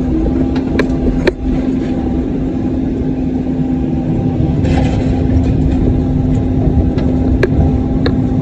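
Caterpillar 305 mini excavator's diesel engine running steadily under work, with a few sharp clicks and knocks and a brief hiss about halfway.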